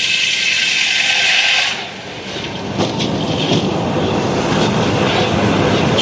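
Sawmill blade running through a log: a loud, steady, high-pitched sawing noise that eases about two seconds in, with a few knocks, then builds back up.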